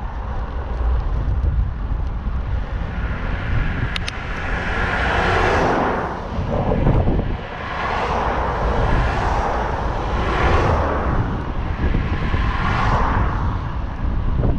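Motor traffic on a main road passing a moving bicycle: several vehicles swell up and fade away one after another, over a steady low rumble of wind on the microphone.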